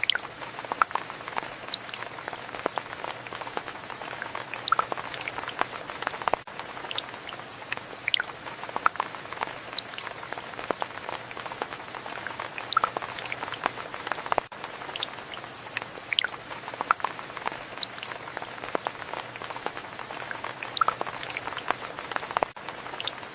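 Steady rain with many close drops pattering and dripping. The same stretch of rain sound repeats about every eight seconds.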